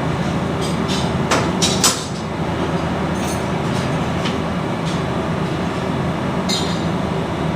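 Steady machinery hum with a cluster of sharp metallic clinks and knocks about a second in, and a few more later, one with a short ring near the end: hand tools striking turbocharger parts during an overhaul.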